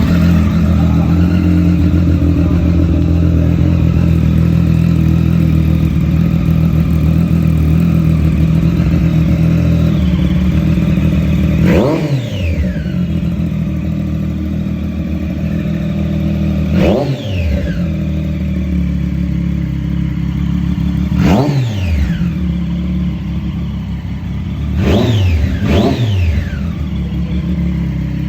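Triumph inline-three motorcycle engine idling steadily just after a start, blipped five times: each blip the revs shoot up and drop straight back to idle, the last two close together near the end.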